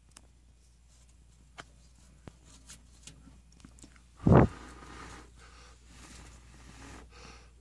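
Faint scattered clicks and rustling of hands working at a gas water heater's pilot assembly, with one loud, brief, low thump about four seconds in.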